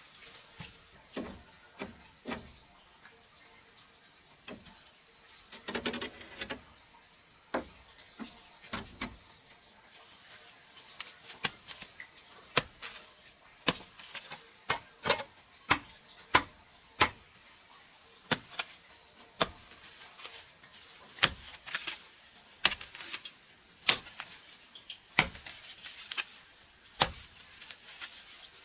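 Repeated sharp knocks of a hand tool striking wood, sparse at first and then about one a second from roughly halfway, over a steady high drone of insects.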